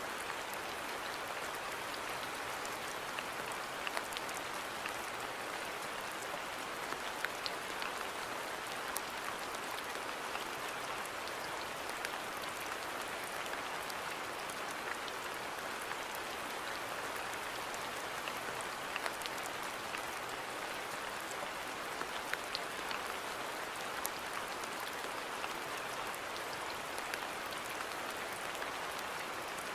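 Steady rain falling in a garden, an even hiss with scattered individual drop ticks.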